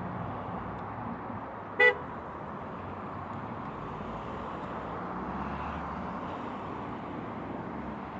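A single short, sharp horn toot about two seconds in, over a steady background rumble of traffic.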